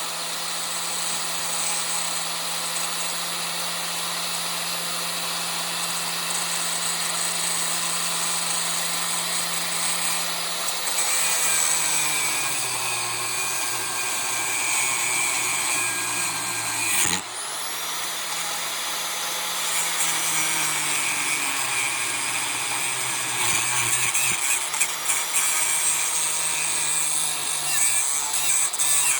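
Angle grinder running and cutting into metal, its motor pitch sagging whenever it bears down under load. About two-thirds of the way through, the motor briefly slows and then picks back up.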